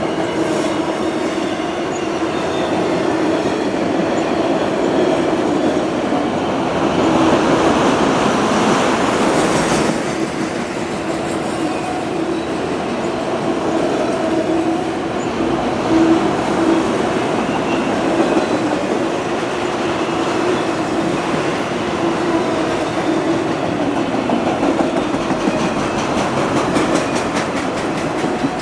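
Freight train cars rolling past: a steady rumble and clatter of steel wheels on the rails, with a sustained tone running through it, swelling louder for a few seconds about a quarter of the way in.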